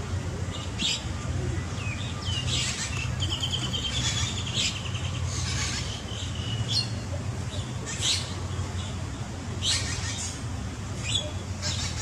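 Small birds chirping: short, sharp high calls every second or so, with a brief rapid trill about three seconds in, over a steady low hum.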